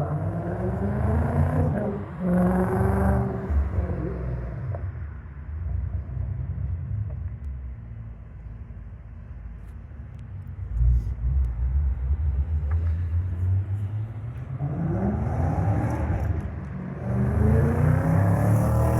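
2006 Audi S4 Avant's 4.2-litre V8 accelerating twice, its pitch climbing steeply each time. The first climb breaks and starts again about two seconds in. Between the two climbs the engine runs low and steady.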